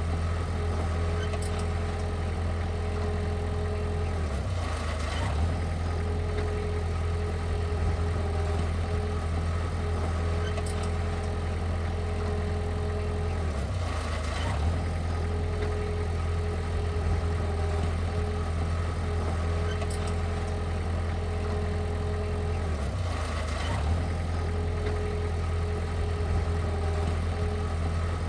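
Heavy machine's engine running steadily at a low, even hum, with a brief dip in its sound three times, about every nine to ten seconds.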